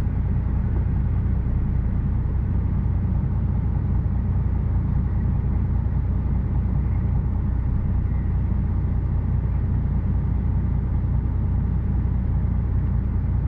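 An HGV lorry's diesel engine running steadily, heard from inside the cab as an even low rumble.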